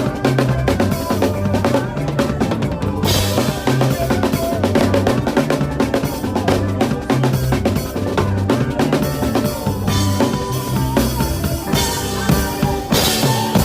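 Drum kit played to a makossa praise medley: bass drum, snare and rimshots over a steady bass line, with a wash of cymbals coming in about three seconds in.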